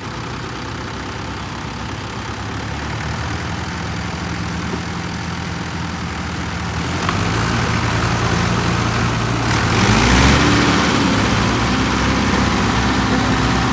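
Tractor diesel engine running steadily, then revved up about seven seconds in. Its pitch rises to the loudest point near ten seconds and holds high to the end, as the tractor tries to pull out of the mud.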